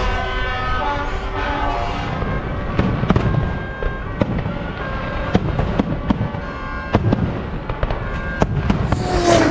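Fireworks display: a string of sharp bangs and crackles at irregular intervals, with a bright burst near the end. Held musical tones fade out during the first two seconds.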